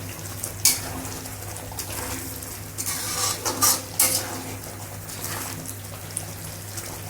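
A spoon stirring thick gravy in a cooking pan, with a few sharp scrapes and knocks of the spoon against the pan, the loudest about half a second in and around four seconds in.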